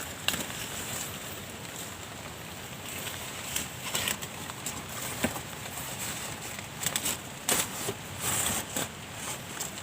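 Steady rain falling, a constant hiss with scattered sharper drop hits.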